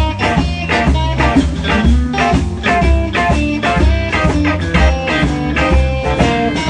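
Live blues band playing an instrumental passage, electric guitar lines over bass and drums with a steady beat.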